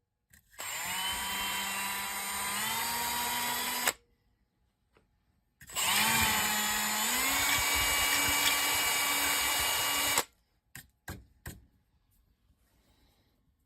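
Small electric power tool run in two bursts of a few seconds each, its motor pitch stepping up partway through each run as it speeds up. A few short clicks follow near the end.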